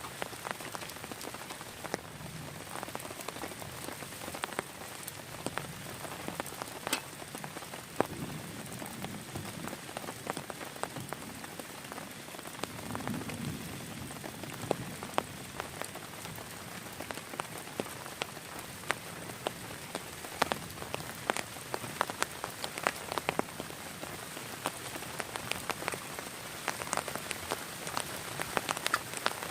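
Heavy rain falling steadily on a surface, with many sharp separate drop strikes that come thicker near the end.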